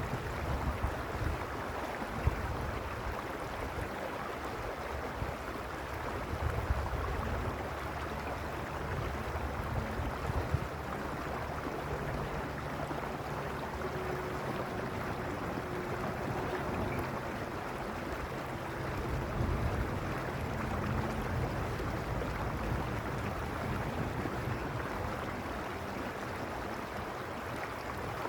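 Stream flowing: a steady rush of water, with an uneven low rumble over the first ten seconds or so.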